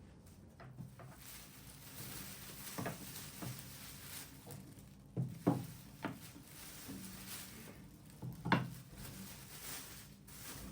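Light handling sounds: a scattered series of soft taps and knocks from objects being moved or set down. The loudest come about five and a half seconds in and again about eight and a half seconds in.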